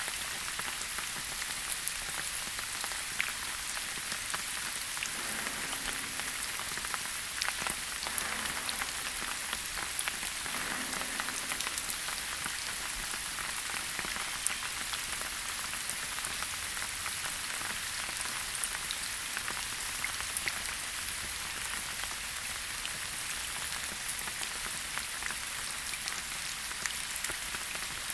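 Steady rain falling on foliage, a constant patter with many individual drops ticking through it.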